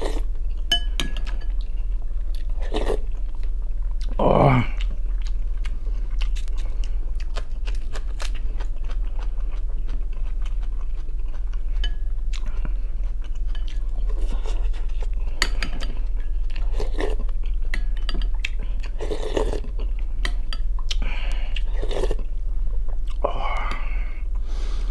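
Close-miked eating: a man chewing soup and black rye bread, with wet mouth clicks and smacks and a few louder mouth sounds, over a steady low hum.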